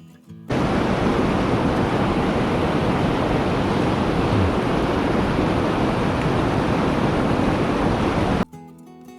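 A loud, steady rushing noise with no rhythm or pitch, cutting in abruptly about half a second in and stopping just as abruptly near the end, with guitar music on either side.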